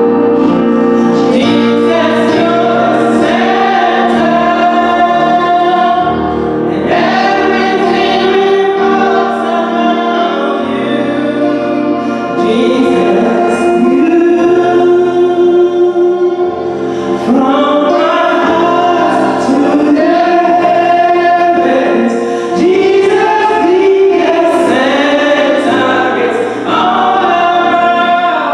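Gospel choir singing a hymn with instrumental accompaniment, mixed voices held on long notes.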